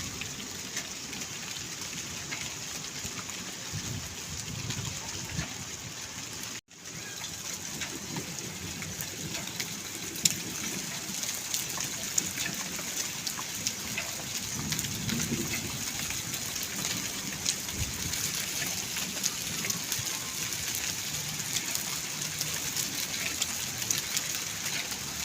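Heavy rain and hail falling: a steady hiss dotted with many sharp ticks of hailstones and drops striking surfaces. The sound drops out briefly about six and a half seconds in.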